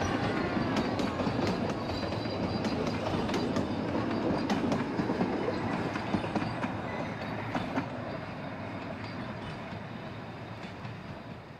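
Narrow-gauge Puffing Billy train rolling along the track, its wheels clicking over the rail joints. The sound fades steadily over the last few seconds as the train draws away.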